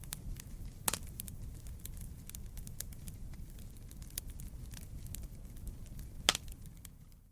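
Campfire of burning wood crackling: a steady low rumble of flame with frequent small crackles and two louder pops, one about a second in and one near the end.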